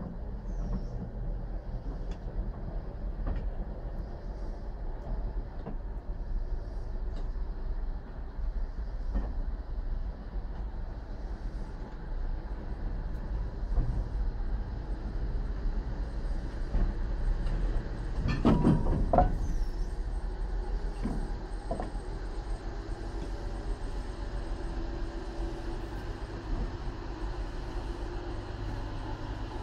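A slow-moving test train of a brake van and coupled diesel locomotives, hauled as a 214-tonne load up a 1:30 gradient, rolls past with a steady low rumble of wheels on rail. About two-thirds of the way through there is a brief, louder metallic sound.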